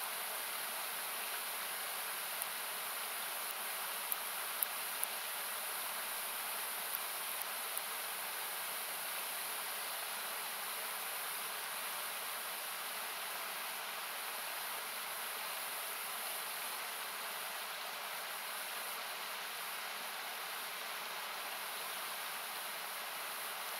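Steady rushing of a river or small waterfall, heard as an even hiss with some of its frequencies cut out by equalizing. A wood campfire crackles faintly over it with a few sharp pops, mostly in the first third.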